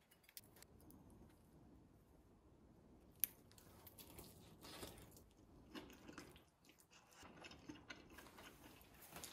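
Faint, close-up chewing and biting of an air-fried chicken drumstick with crisp skin: scattered small crunches and mouth noises, with a sharp click about three seconds in.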